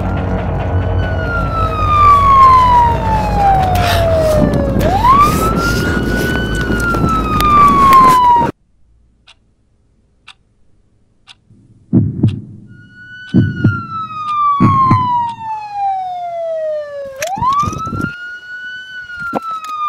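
Police siren wailing: each cycle rises quickly, then falls slowly over about four seconds, over a low steady drone. It cuts off suddenly. After a few near-silent seconds, several heavy thumps come, and then the siren wails again.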